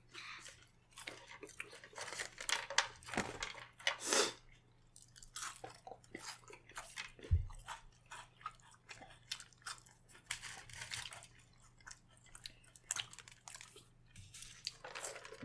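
Chewing and crunching of crispy, well-done French fries, with many irregular crisp crunches. A single low thump about seven seconds in.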